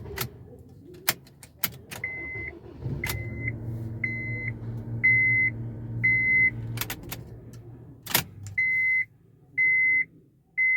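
Honda Civic warning chime beeping about once a second, with several clicks early on. About three seconds in, the engine starts without any starter grind and runs with a steady low hum for about five seconds, stopping with a click; the freshly cleaned starter engages cleanly.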